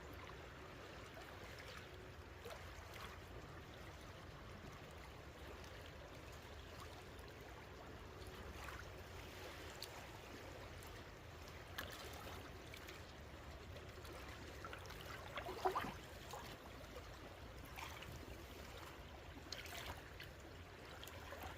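Faint, steady rush of river water flowing, with a few light knocks or clicks now and then, the clearest about two thirds of the way through.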